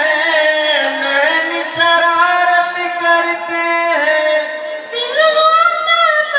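A man singing a song verse unaccompanied in a high, woman-like voice, holding long notes with slides between them, as a voice imitation of a girl singing.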